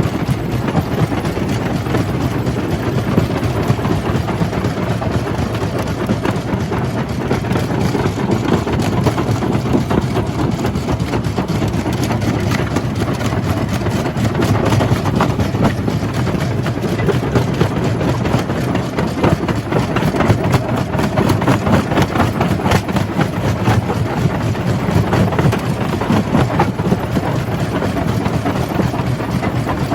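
Jaw crusher running steadily, a constant heavy machine drone with a dense stream of knocks and crunching as rock is crushed.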